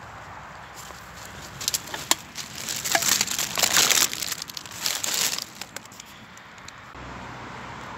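Rubbish bag and litter crinkling and rustling as rubbish is gathered and stuffed into the bag, in a run of bursts that is loudest in the middle.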